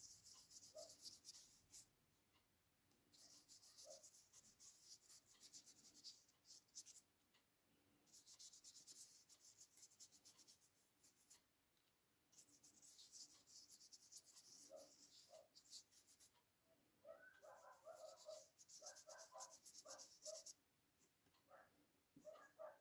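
Faint scratching of drawing strokes on paper, coming in spells of one to three seconds with short pauses between them.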